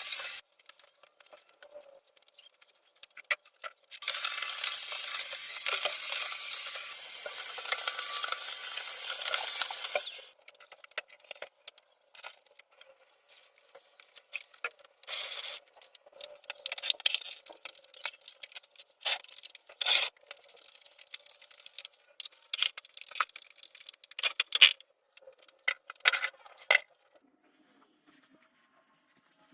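Household objects being handled during cleaning: scattered clinks, knocks and clatter, with a steady hiss lasting about six seconds near the start.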